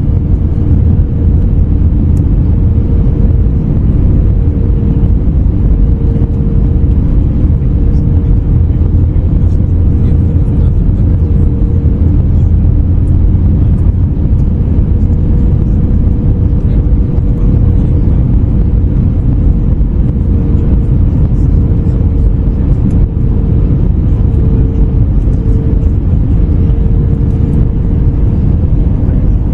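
Airbus A321neo cabin noise from a window seat: the steady low rumble of the Pratt & Whitney geared turbofans and airflow, with a held hum that wavers slightly in strength.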